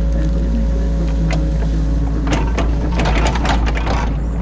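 Excavator diesel engine running steadily, heard from inside the cab, with a burst of clattering and scraping about halfway through as the machine works.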